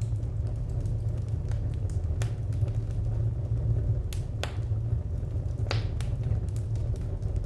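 Wood fire crackling: irregular sharp pops and snaps over a steady low rumble, with louder pops about two, four and a half and six seconds in.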